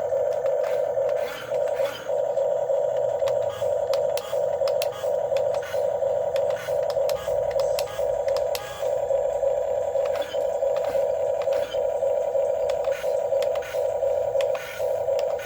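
Electric motors of a Huina 1550 RC excavator whining steadily as it works, the whine briefly dipping every second or so, with light scrapes and clicks.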